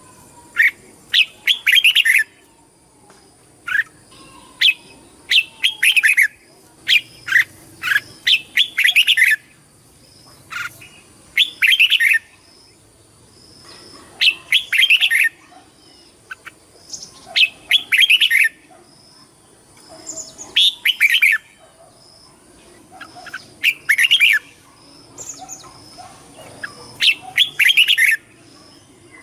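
Red-whiskered bulbul singing: short, loud, chattering song phrases repeated every two to three seconds.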